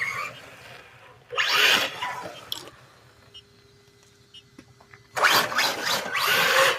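A 1/12-scale RC rally car driving in two bursts, about a second in and again for the last second and a half. Each burst is a rasping rush of electric motor and tyre noise, and a brief rising whine comes at the very start.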